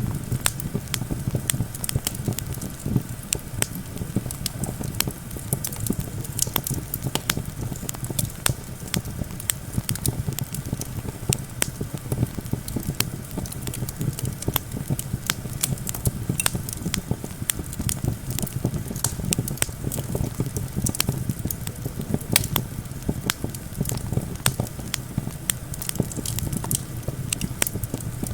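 Wood campfire crackling and popping in dense, irregular snaps over a steady low rumble of wind.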